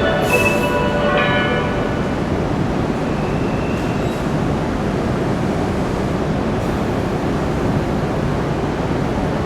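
Train running, a loud steady rumble and hiss of the cars on the track. A cluster of held tones at the start fades out within the first second or two.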